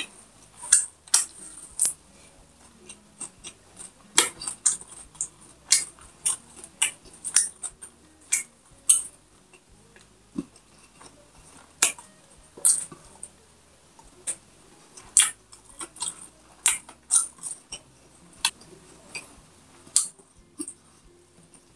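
A person chewing food with her mouth: irregular crisp crunches and clicks, a few a second, some much louder than others.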